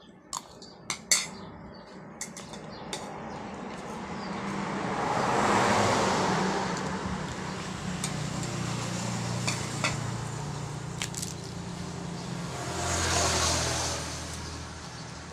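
Two motor vehicles passing one after the other, each swelling up and fading away, with a steady low engine hum under them. A few light clicks sound near the start.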